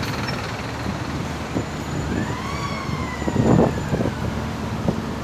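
A siren wails once, rising and then slowly falling, over steady road traffic noise, with a loud rumbling burst about three and a half seconds in.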